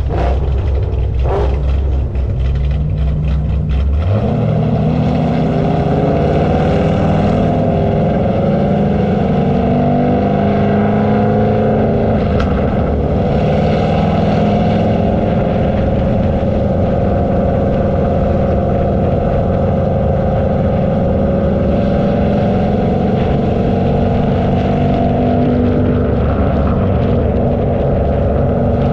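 Car engine running: a low rumble that climbs slightly for about four seconds, then steps up abruptly to higher revs and holds a steady, even engine note.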